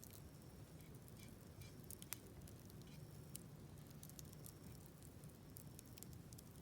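Faint crackling of a wood campfire in a fire pit: scattered small ticks and pops, with one sharper pop about two seconds in, over a faint low rumble.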